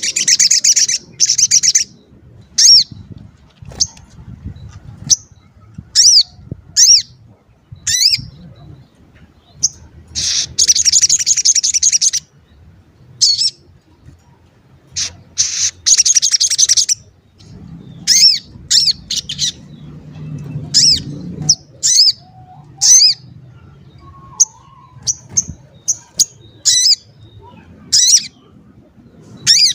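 A sogon bird singing: loud, high, sharp 'cuit' chirps, each dropping in pitch, repeated singly and in quick pairs, broken three times by rapid chattering runs lasting a second or two.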